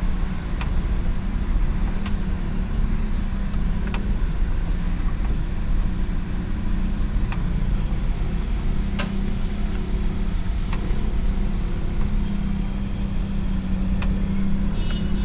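A motor vehicle's engine running steadily with a low rumble, joined by a few faint scattered clicks.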